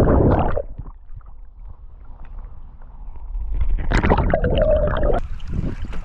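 Muffled sloshing and gurgling of river water around a submerged action camera. It surges loudly at the start and again about four seconds in, with quieter churning between.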